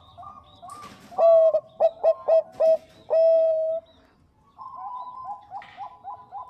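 Zebra doves (Bangkok perkutut) cooing. Soft, quickly repeated notes give way about a second in to a loud run of short clipped coos that ends in one longer held note. After a short lull the soft rapid cooing picks up again.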